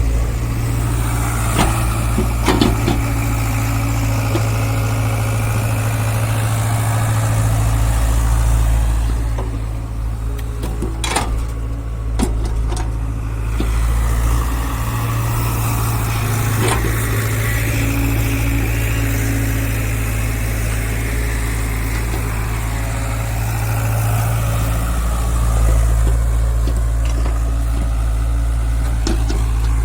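Diesel engine of heavy machinery running steadily, swelling and easing a little. A few sharp clanks sound over it, near the start, about eleven seconds in and about seventeen seconds in.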